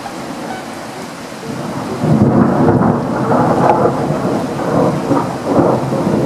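Steady rain falling, with a long rolling rumble of thunder that builds about two seconds in, swells and eases in several waves, and starts to die away near the end.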